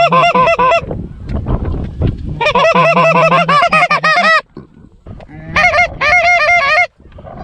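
Canada goose call blown by a hunter in three fast runs of honks and clucks, each a second or two long and cutting off abruptly.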